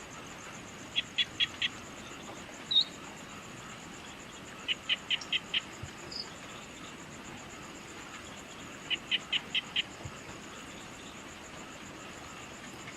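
Evening nature ambience: a steady, high, rapidly pulsing insect trill, with an animal calling in quick runs of four or five short notes about every four seconds, three runs in all, and a couple of single chirps between them.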